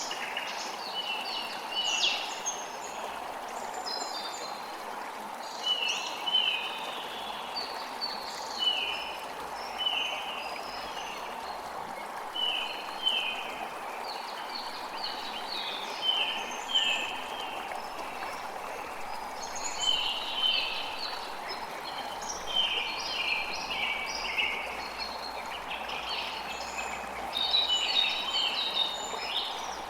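Steady rushing of a creek, with songbirds chirping and singing over it in short repeated phrases throughout.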